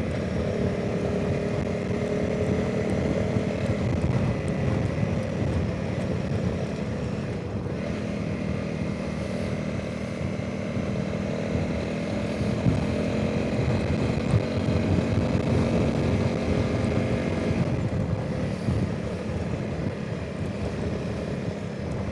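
Honda CRF300 Rally's single-cylinder engine running at road speed, its note shifting a few times with the throttle, under heavy wind noise on the rider's microphone.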